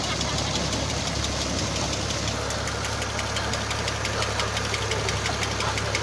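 Diesel engine of a New Holland Ghazi tractor running steadily with a fast, even clatter, as it drives a tubewell pump through a shaft.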